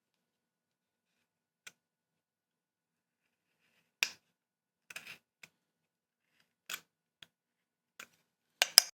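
Scattered short, sharp clicks and taps of hand carving tools on wood, irregularly spaced, with the loudest two close together near the end.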